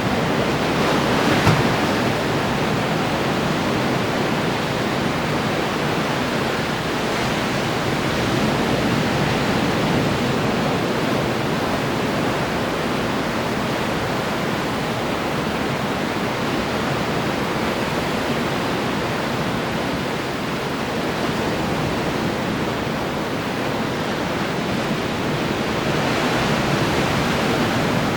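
Ocean surf rolling in and breaking against the shore: a continuous rushing wash that swells slightly about a second and a half in.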